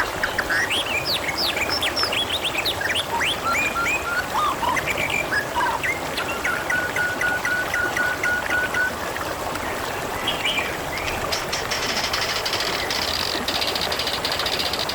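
Water trickling and babbling steadily, with small birds chirping and whistling over it in the first few seconds and one bird giving a level trill about halfway. A high, even buzz comes in for the last few seconds.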